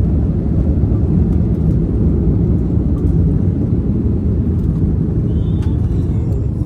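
Jet engines and rushing air heard inside an Airbus A320-family airliner's cabin during departure: a loud, steady, low rumble.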